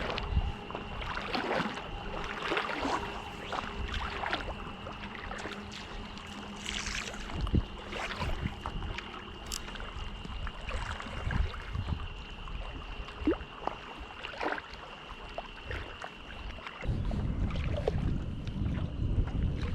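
Small water splashes and knocks against lakeshore water and wind, with a steady high drone until about three-quarters of the way through. Near the end, wind on the microphone rises into a louder low rumble.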